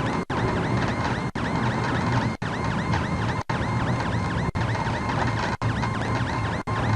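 Emergency vehicle siren in a fast yelp, its pitch swooping up and down several times a second, broken by brief gaps about once a second.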